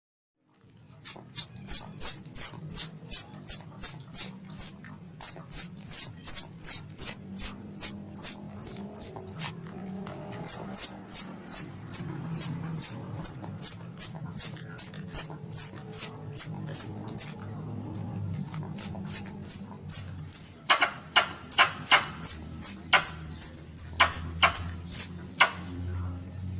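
Young Asian palm civet (luwak) calling: a rapid run of short, high-pitched squeaking chirps, about two to three a second, broken by brief pauses near 10 and 18 seconds in. From about 20 seconds in the calls turn harsher and fuller. A low steady hum runs underneath.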